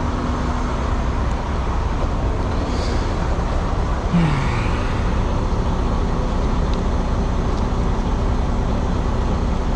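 Steady low rumble of an idling truck engine and road traffic, with a short falling tone about four seconds in.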